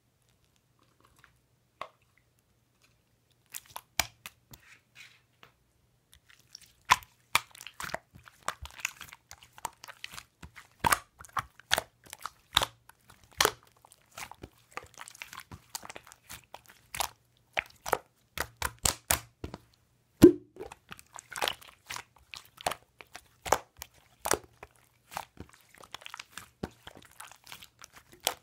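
Slime being squeezed and stretched by hand, giving irregular sharp crackles and pops of trapped air. The pops start a few seconds in.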